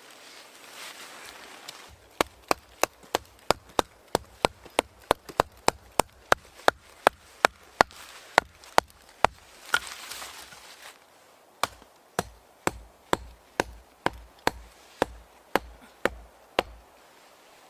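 Repeated chopping strikes with a blade, sharp and evenly spaced: a fast run of about three a second, a short pause with some rustling, then a slower run of about two a second.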